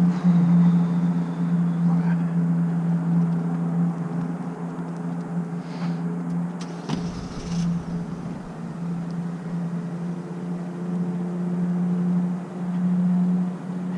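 Steady low hum of a running vehicle, with a short rumble and knock about seven seconds in.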